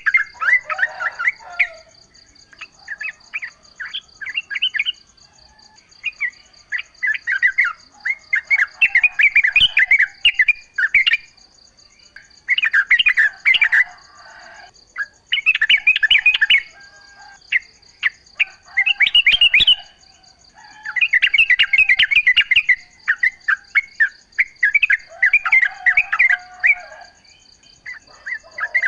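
Yellow-vented bulbul (trucukan) singing: bubbly, chattering phrases a second or two long, repeated after short pauses. A faint, steady high-pitched tone runs underneath.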